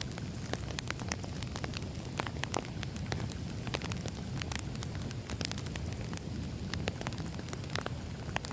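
Wood fire crackling: frequent, irregular pops and snaps over a low, steady rumble of burning logs.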